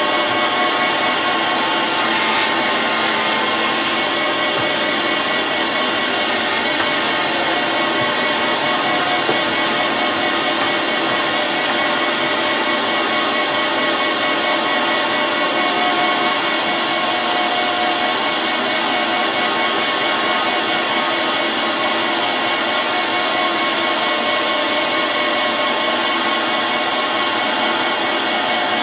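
A machine tool running continuously while cutting a steel wood-chipper blade. It gives an even, unbroken noise with a steady hum of several fixed tones.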